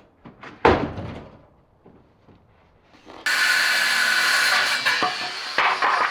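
A few knocks of wood pieces being handled, the loudest about a second in, then a power tool starts about three seconds in and runs steadily on the wood.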